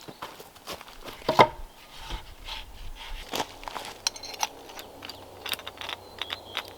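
Irregular knocking, scraping and rustling of wood being handled, with one sharper knock about a second and a half in.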